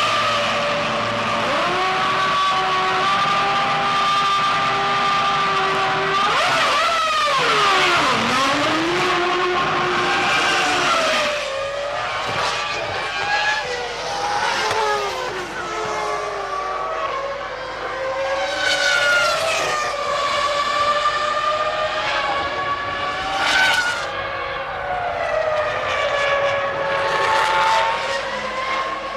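Formula One cars with high-revving 3-litre V10 engines racing past, several in succession. The engine pitch climbs, then drops sharply at gear changes or sweeps down as each car goes by, with a loud pass about two-thirds of the way through.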